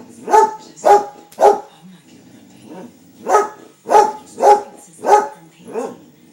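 A dog barking repeatedly at a squirrel: three quick barks, a pause of about a second and a half, then five more.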